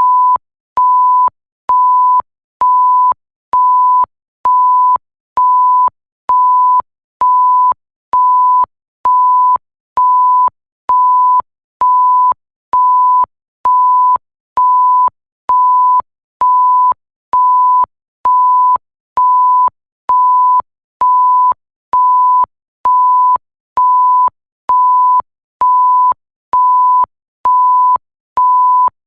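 Pure 1 kHz test-tone bleep, pulsed on and off at about one beep a second, each beep about half a second long, with a faint click as each starts and stops.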